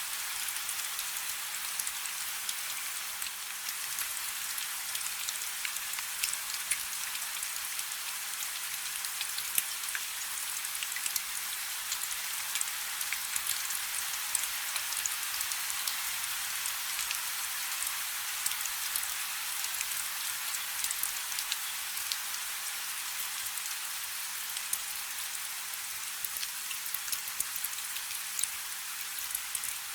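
Steady rain falling on a river: a constant high hiss of many drops with frequent sharp individual drop ticks, and little low rumble.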